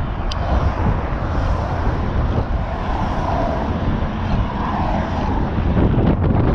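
Strong wind buffeting the microphone of a riding cyclist's camera, a steady loud rush with a deep rumble.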